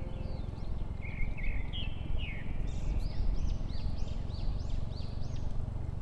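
Birds chirping over a steady low rumble. There is a warbling run of calls in the first half, then a string of short rising-and-falling chirps, about two a second.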